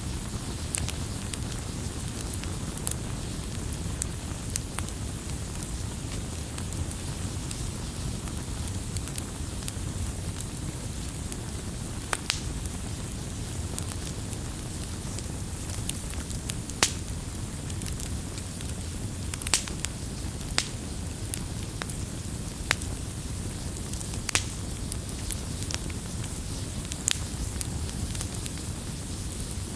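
Firewood burning, a steady low rumble and hiss with sharp pops and crackles at irregular intervals, a few louder snaps among them.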